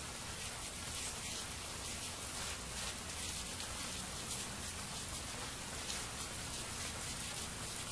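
Steady rain falling, a dense patter of many small drops with no let-up.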